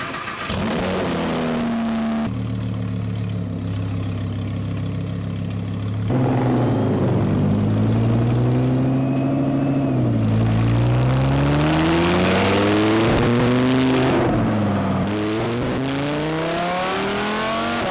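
Audi R8's 5.2-litre V10 through a newly fitted Fabspeed aftermarket exhaust: it starts about half a second in with a brief flare, settles to a steady idle, then is revved up and let fall back a few times.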